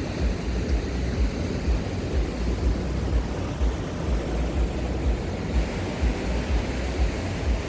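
Wind buffeting the microphone in uneven low thumps over a steady rush of sea surf.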